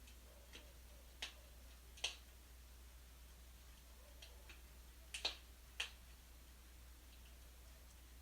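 Wood fire in a fireplace crackling: sharp, irregular pops and snaps, about eight of them, the loudest around two seconds in and just past five seconds, over a faint steady low hum.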